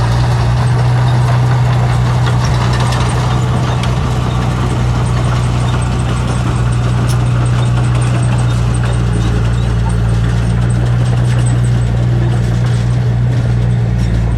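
Heavy construction machine's diesel engine running steadily at a constant pitch, with faint clicks over it.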